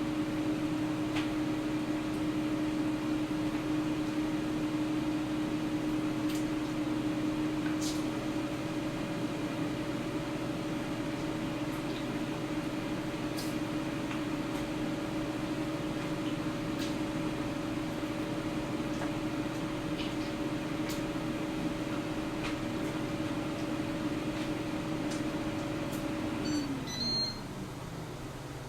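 Air fryer running: its fan and heater make a steady hum with a constant tone. About 26 seconds in, the fan winds down with a falling pitch as the cycle ends, and a short high beep follows.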